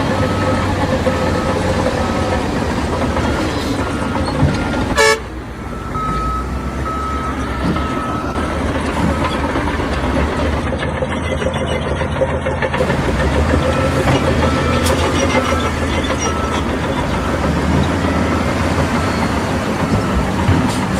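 Diesel heavy machinery running steadily, with a reversing alarm beeping in a regular on-off pattern that starts and stops several times. About five seconds in, a sharp click is followed by a brief drop in level.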